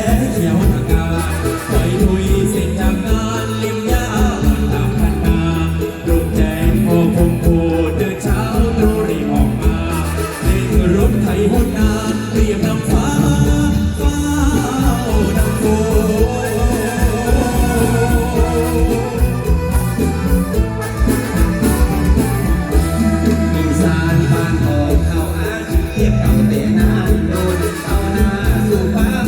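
Live mor lam band playing loud amplified music, with singing over a fast, steady drum beat and heavy bass.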